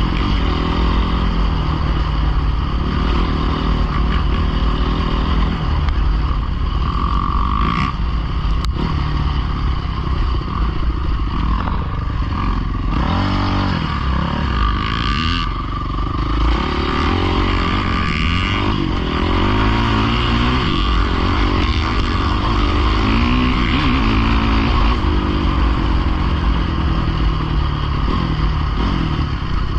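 Dirt bike engines revving up and down as they ride, several overlapping engine notes rising and falling in pitch throughout.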